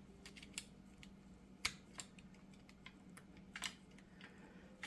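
A few scattered light metallic clicks and taps as the retaining clip of a new universal joint on the axle shaft is handled and worked toward its groove.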